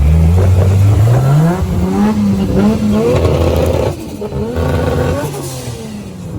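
A car engine revving, its pitch climbing and holding high, then dropping off sharply about four seconds in before rising and falling once more near the end.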